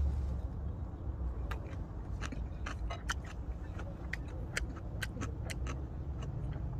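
Close-up chewing of a mouthful of boiled pork belly with green-onion kimchi: irregular wet clicks and smacks, several a second, over a steady low rumble.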